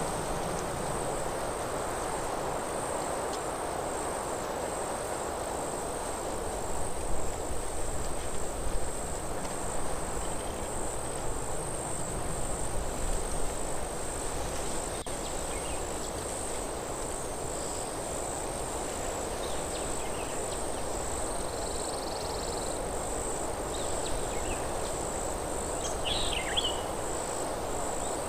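Forest ambience: a steady rustle of wind through the trees, under a continuous high, evenly pulsing insect trill like a cricket's. A few short bird chirps come in the second half.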